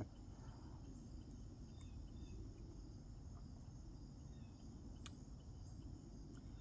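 Quiet room tone: a low steady hum with a faint high-pitched whine, and a single faint click about five seconds in.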